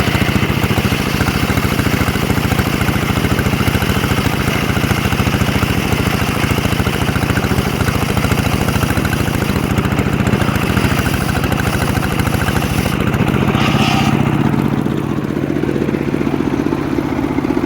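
Homemade circular sawmill running steadily under load, the engine drone mixed with the hiss of the blade ripping through a mahogany log. About fourteen seconds in the high cutting hiss drops away and the engine runs on alone at a lower, smoother note.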